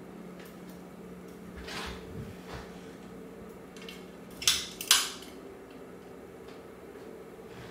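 SMC Laguna Deluxe ceiling fan running at medium speed with a steady motor hum. Two sharp clacks about half a second apart come a little past the middle, with a few fainter knocks before them.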